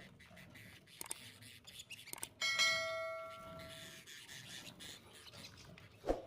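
A bell-like chime struck once about two and a half seconds in, ringing with several tones at once and fading out over about a second and a half, over a background of faint clicks.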